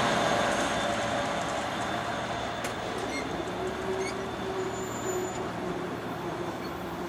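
New Jersey Transit passenger train rushing past and receding, its wheel-and-rail rumble fading steadily. A few sharp clicks come a few seconds in.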